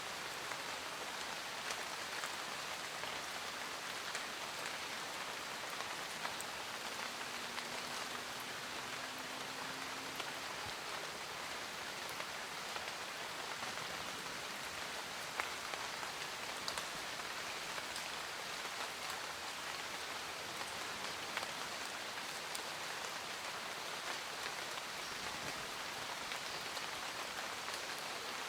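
Steady rain falling, a constant patter of drops with scattered sharper drips.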